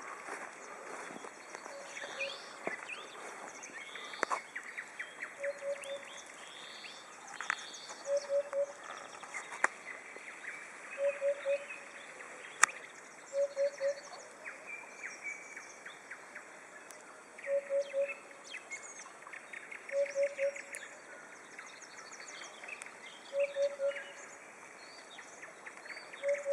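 Dawn chorus of songbirds, with nightingales singing rich, varied phrases. Through it, another bird repeats a low hooting call of three quick notes every few seconds.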